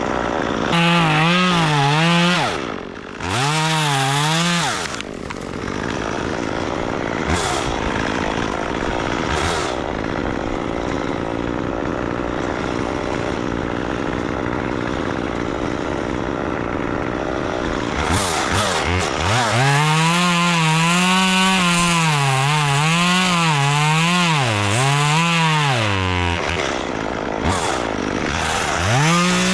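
Chainsaw running through a cut, its engine pitch rising and dipping again and again as it is throttled and bogs in the wood. A steadier, rougher stretch in the middle.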